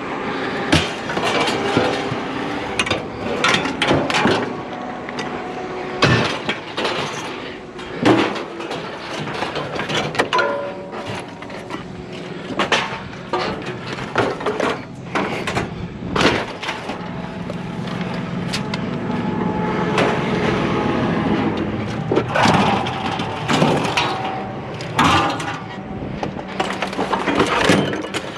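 Scrap metal items such as bicycles and a chair thrown off a trailer onto a scrap pile, with repeated clattering and crashing impacts at irregular intervals over a steady hum.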